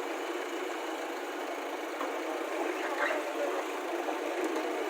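Heavy diesel engine of earth-moving machinery running steadily, heard thin with no deep bass.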